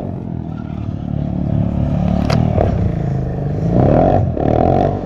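Stunt motorcycle engine running and being revved, its pitch rising and falling and loudest near the end, with a sharp click a little over two seconds in.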